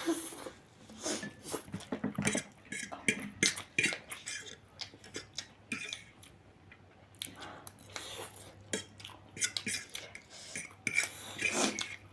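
Cutlery clinking and scraping against bowls and plates during a meal, in irregular short clicks.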